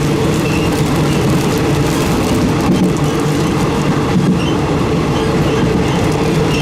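Passenger train running on the rails, heard from inside a third-class carriage with open windows: a steady, loud rumble of wheels on track.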